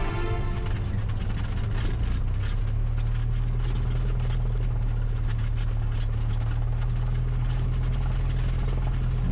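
Cessna 172's single piston engine running steadily, a low even drone.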